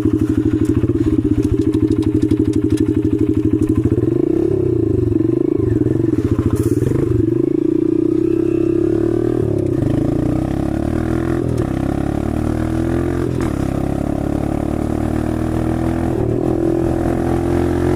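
125 cc dirt bike engine running under way. Its pitch rises and falls with the throttle for several seconds, then holds steadier and a little quieter.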